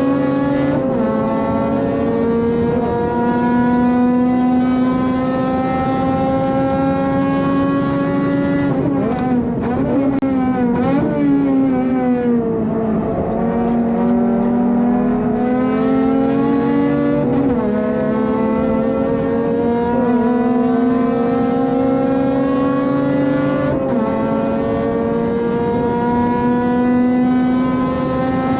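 Honda Civic FD2's four-cylinder engine at high revs, heard from inside the car, pulling up through the gears with pitch steps at the upshifts. About ten seconds in the revs fall away with quick throttle blips on downshifts for a corner, then climb again.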